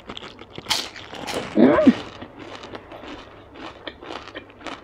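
Close-miked biting and chewing of a crispy fried Vietnamese spring roll (chả giò): many small sharp crunches of the fried wrapper, loudest just under a second in. A short voiced "mm"-like sound from the eater about one and a half seconds in.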